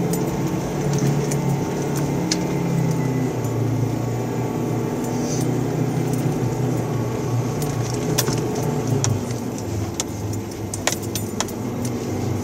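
SsangYong Korando's engine running as it drives over sand dunes, heard from inside the cab, its pitch wavering a little. Sharp jangling rattles come through, most of them in the second half.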